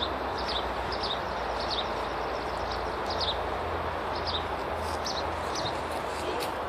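A small bird chirping over and over, short high chirps about once or twice a second, over a steady hiss of outdoor background noise.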